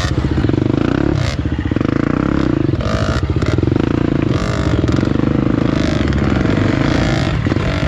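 Trail motorcycle engine running and revving up and down over and over, with clatter from the rough ground.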